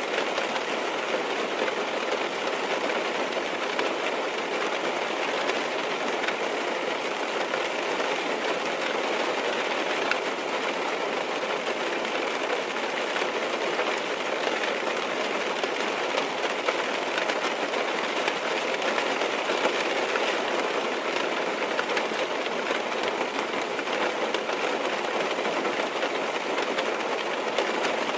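Steady rain falling on a car's roof and windows, heard from inside the car: a dense, even patter of drops with many small taps.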